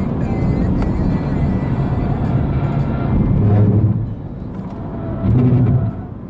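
Car engine and road noise heard from inside a car on a track lap, running loud and steady, then dropping off about four seconds in, with a brief louder spell after that.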